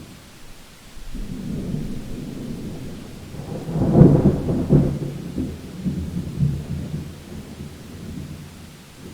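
Thunder: a low rumble builds about a second in, peaks in a loud crack about four seconds in, then rolls away and fades.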